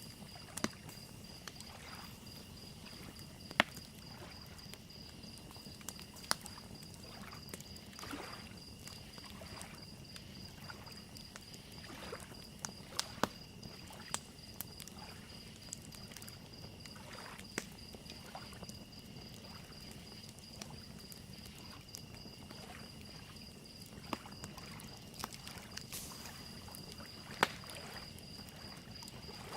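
Lakeside ambience: small waves lapping at the shore, a crackling fire with sharp pops at irregular intervals, and crickets chirping in a steady high trill.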